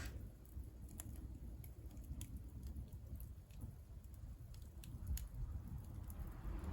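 Firewood burning in a wood stove: a low, steady rumble of the fire with scattered sharp crackles and pops.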